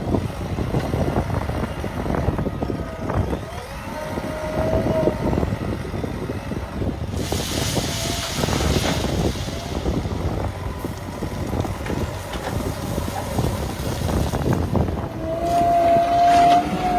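Heavy diesel machinery running with a continuous rough rumble, a burst of hiss about seven seconds in, and a steady high whine near the end.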